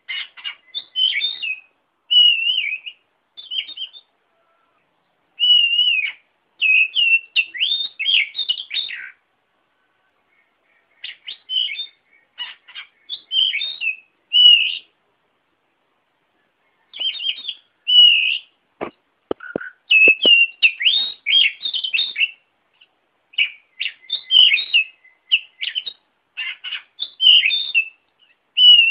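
An oriental magpie-robin (kacer) singing in a series of quick, varied phrases of chirps and whistled notes, each a second or two long with short pauses between them. A few faint clicks fall a little past the middle.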